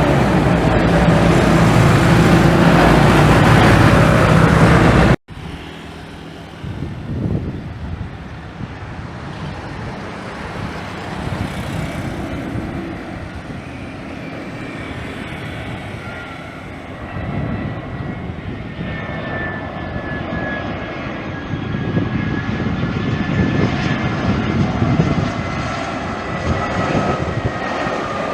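Jet airliner on landing approach: a gusty engine rumble with a thin fan whine that slowly falls in pitch and grows louder near the end. Before it, about five seconds of a loud, dense sound that cuts off suddenly.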